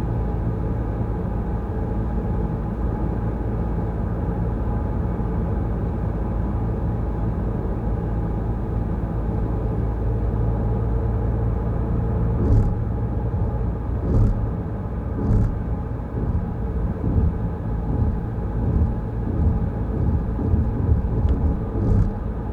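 Car driving on a wet road, a steady low rumble of engine and tyres. From about halfway on, several sudden thumps and a more uneven rumble break in.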